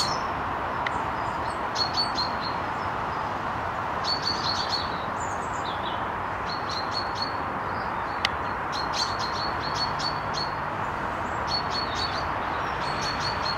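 Small songbirds chirping in short clusters of high notes every second or two, over a steady background hiss.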